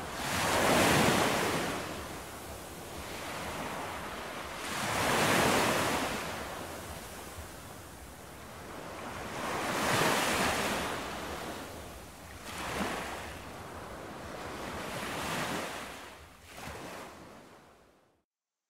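Sea waves breaking on a beach: a surge of surf swells and fades every few seconds, the first about a second in the loudest. Near the end the sound cuts off abruptly to silence.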